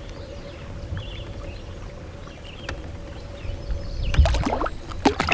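Low rumble of wind and water around a canoe, with a few small knocks and short handling noises about four seconds in and again near the end.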